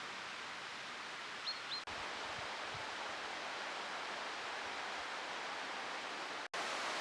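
Steady rushing outdoor background noise, with two short high chirps about a second and a half in.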